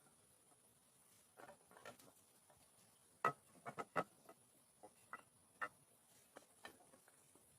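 Irregular light clicks and taps, a dozen or so scattered short knocks, the sharpest a little over three seconds in and around four seconds.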